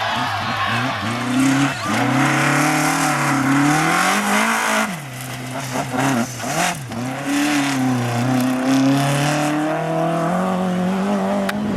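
Rally car engine at speed on a stage, its note climbing and dropping with gear changes; about five seconds in it lifts off sharply, with quick throttle blips, then pulls hard again.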